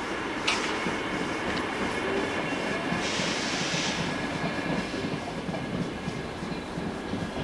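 VR electric locomotive and double-deck Intercity coaches rolling past on the tracks, a steady rumble with wheel clatter and a faint high squeal. A sharp click about half a second in and a burst of hiss around three seconds in.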